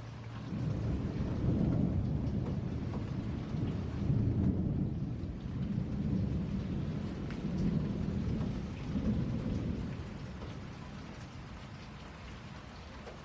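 Steady rain with a long roll of thunder: a deep rumble that builds about half a second in, swells and ebbs several times, and dies away near the end, leaving only the rain.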